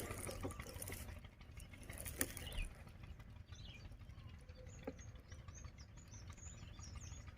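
Faint outdoor ambience with a light patter and a few small clicks, and short high bird chirps in the second half.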